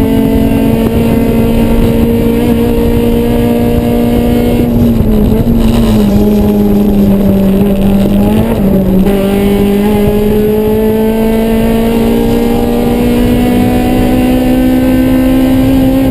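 Honda S2000's four-cylinder engine running hard at high revs under load, its muffler loose. The pitch stays high, dips briefly about halfway through, then climbs slowly.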